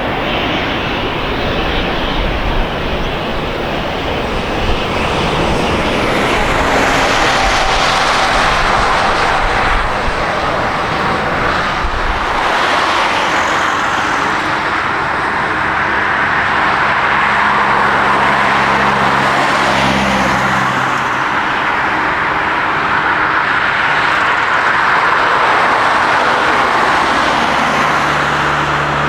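Jet airliner's engines running loud and steady, a broad rush of jet noise that swells a little and holds.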